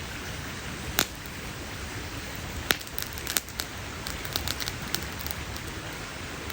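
Wood campfire crackling, with a sharp pop about a second in, another pop and a few snaps near three seconds, and a run of small crackles a little later, over a steady hiss.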